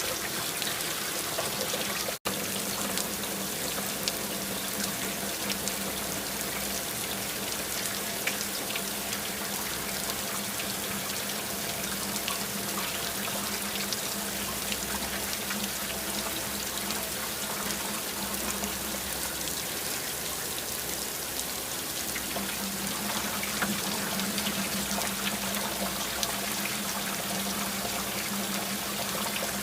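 Steady rain with many close drips and trickling runoff water, over a faint steady low hum. The sound cuts out for an instant about two seconds in.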